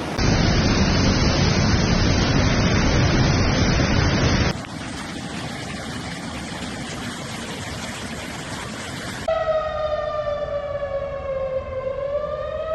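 Loud, steady rushing of floodwater, cutting to a quieter rushing about four and a half seconds in. Near the end a wailing siren sounds, its pitch falling slowly and then rising.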